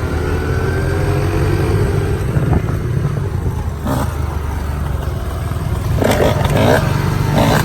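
Dirt bike engine running, its pitch falling over the first second as the revs drop, then running on at a steady low note.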